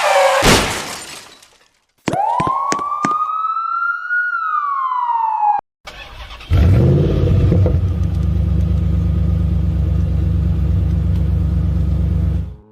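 Cartoon sound effects: a loud noisy burst that fades over about a second and a half, then a single police siren wail that rises and falls and cuts off suddenly, then a loud steady vehicle engine rumble.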